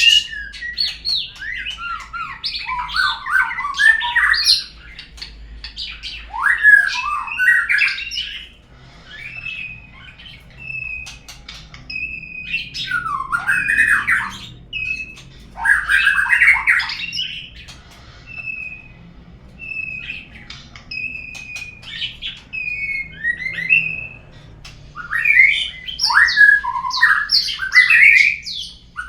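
Murai (magpie-robin) song, the kind used as a lure to set a caged murai singing: a loud, varied run of whistles and chattering phrases, with short pauses and single clear whistled notes between the dense passages.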